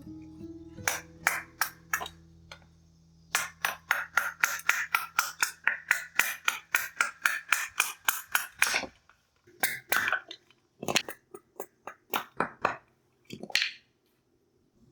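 Small hardwood fire crackling: sharp pops, a few at first, then a dense run of about five a second, then thinning out to scattered pops near the end.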